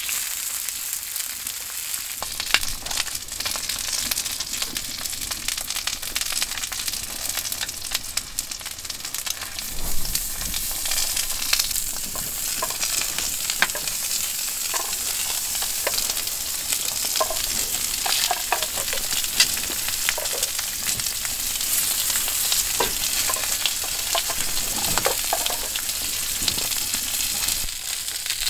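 Eggs and a sausage sizzling in a hot cast-iron skillet, a steady frying hiss, with a metal spatula scraping and tapping against the pan now and then.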